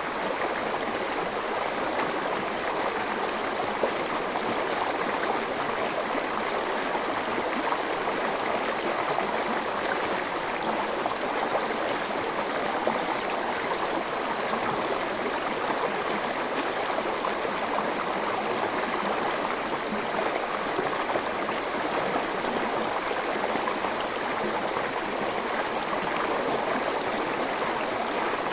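Forest stream flowing, a steady, unbroken rush and gurgle of water.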